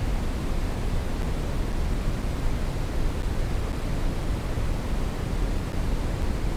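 Steady brown noise: a constant, even rushing noise weighted to the low end, with no changes or events.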